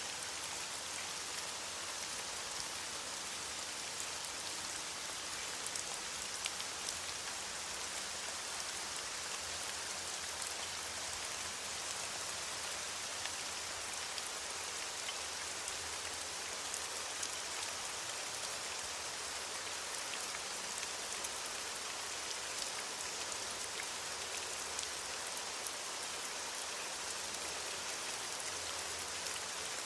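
Steady rain falling on leaves: an even hiss with many small drop ticks scattered through it.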